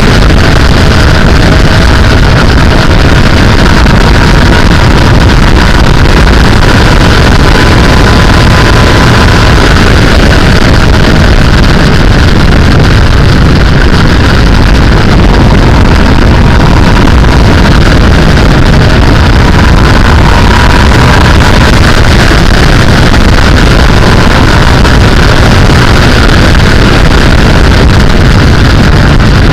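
Sportbike running at road speed, loud and steady, mostly wind rushing over the microphone with the engine's note underneath, its pitch drifting slowly up and down.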